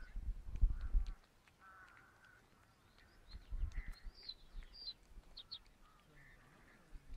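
Birds calling in the background: several short, high chirps and a harsher, lower call about two seconds in. Low rumbles on the microphone near the start and again about three and a half seconds in.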